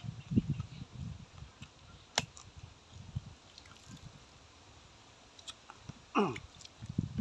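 A person chewing and munching food, with soft wet smacks and crunches. There is a sharp click about two seconds in, and a short sound falling steeply in pitch about six seconds in.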